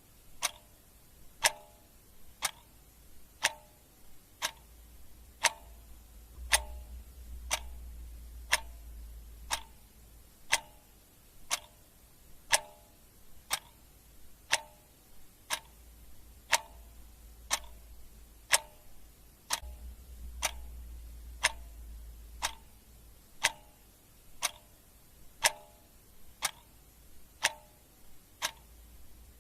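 Clock ticking steadily, a sharp click about once a second, with a faint low hum beneath.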